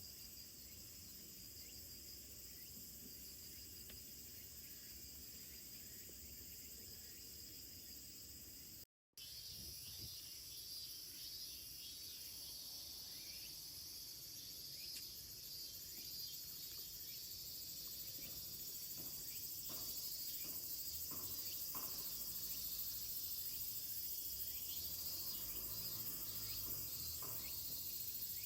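Evening chorus of crickets and other insects, a steady high-pitched shrill. It cuts out for an instant about nine seconds in.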